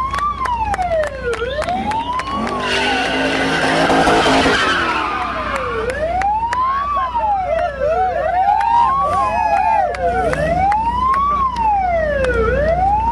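Police car siren wailing, rising and falling about every two seconds, with a louder rush of engine revving and tyre noise from a drifting car about three to five seconds in.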